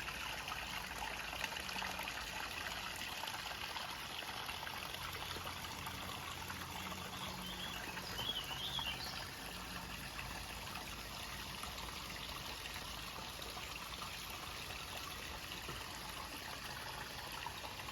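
Water running in a stream swollen by days of rain, a steady trickling and splashing.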